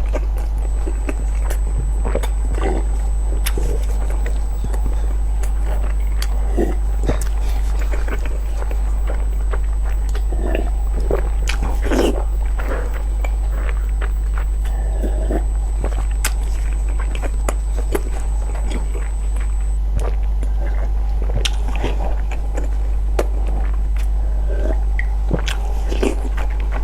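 Close-miked chewing and biting, irregular soft mouth noises of a person eating hard-boiled eggs, over a steady low hum.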